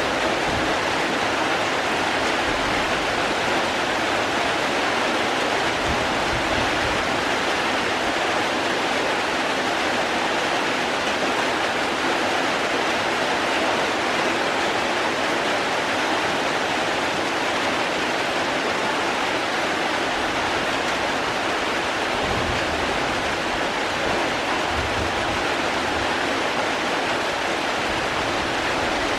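Steady rain falling without let-up, an even hiss of water that neither swells nor fades.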